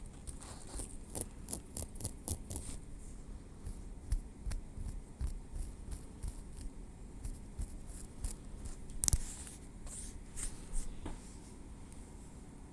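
Tweezers making soft, close-up clicks and small taps, with a quick run of light clicks in the first few seconds and one sharper click about nine seconds in.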